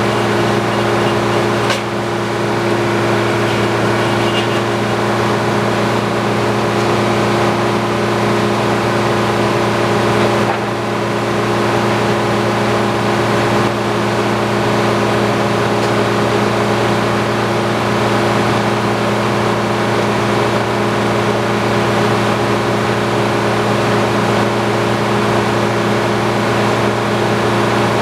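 Antique circular sawmill running: a steady engine-driven drone with a strong low hum, dipping briefly about two seconds in and again around ten seconds in.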